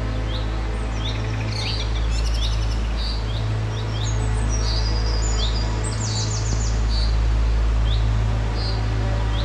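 Several songbirds singing. One repeats a short rising chirp every half second to a second, while others add fast high trills and buzzy notes, over a steady low rumble.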